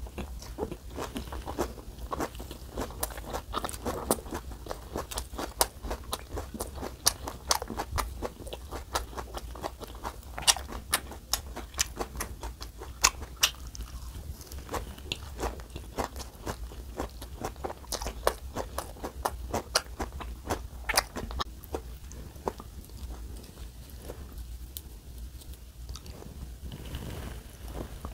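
A person chewing and crunching mouthfuls of raw vegetables (bean sprouts, lettuce, cabbage) wrapped with flat dumplings, close to the microphone: a steady run of sharp crunches, thinning out in the last several seconds.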